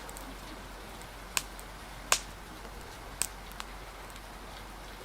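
Steady rain and wind hiss with a few sharp pops from a crackling wood fire: four in all, the loudest about two seconds in.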